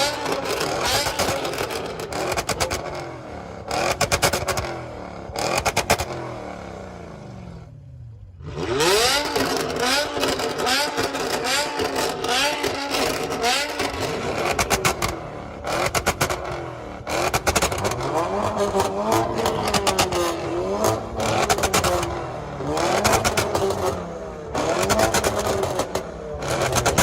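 Modified car engines revving hard again and again, with sharp exhaust cracks between revs. About eight seconds in, one car pulls away, its engine note climbing steadily.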